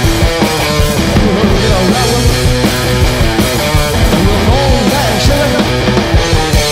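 Live garage-punk rock band playing loud, steady music, with sliding, bending notes over a driving low end.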